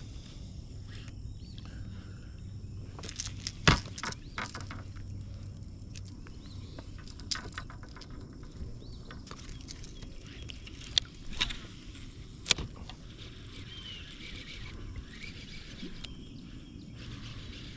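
Steady outdoor background noise broken by several sharp clicks and knocks, loudest about four seconds in and again after twelve seconds, with faint high chirps a little later.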